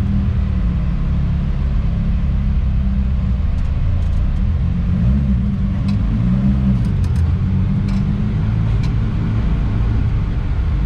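A car's engine and road noise, heard from inside the cabin while driving at low speed. The engine note rises and falls briefly about halfway through.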